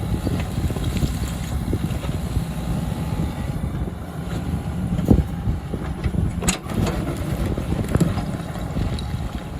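Heavy earth-moving machinery's diesel engine running steadily, with a few sharp knocks around the middle.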